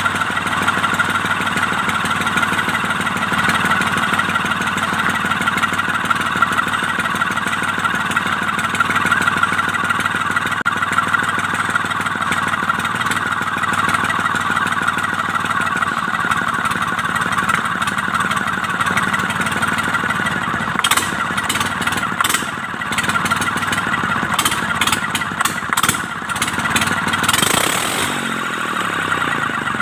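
Mitsubishi K3E three-cylinder diesel running steadily after its three pistons and rings were replaced to cure hard starting. Over the last several seconds a run of sharp clicks is heard, and a falling tone comes near the end.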